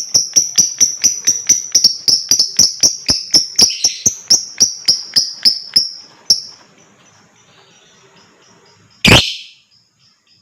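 Lovebird ngekek: a long run of rapid, sharp, high chirps, about five a second, fading out about six seconds in. About nine seconds in comes a single loud, short sound, followed by a few faint chirps.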